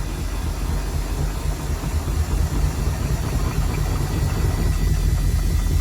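Samsung washing machine on its spin cycle, the drum rumbling and rattling with an unbalanced spin, slowly getting a little louder.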